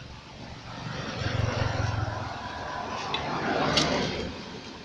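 An engine running, swelling louder about a second and a half in and again near four seconds.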